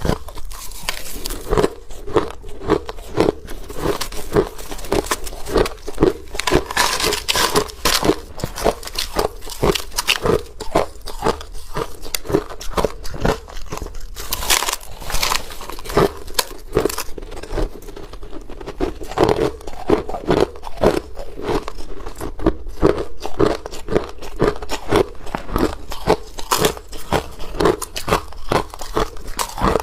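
Ice being chewed: a steady run of sharp, crackly crunches, a few bites a second.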